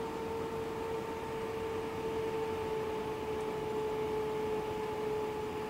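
Steady background hiss with a constant mid-pitched hum, unchanging throughout; no other sound.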